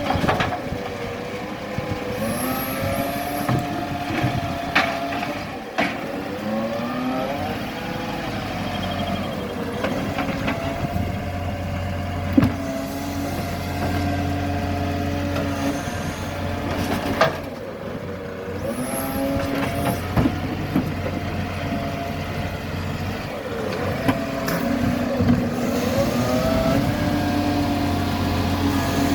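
Garbage truck engine running, its pitch rising and falling several times, with a few sharp knocks.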